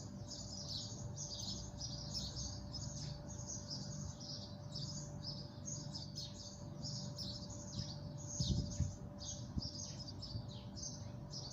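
Small birds chirping without a break, a rapid run of short high chirps several a second, over a low steady hum, with a single thump about eight and a half seconds in.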